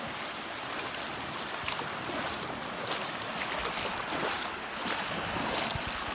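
Shallow sea water sloshing and splashing around a person standing waist-deep in the waves, with small scattered splashes and some wind on the microphone.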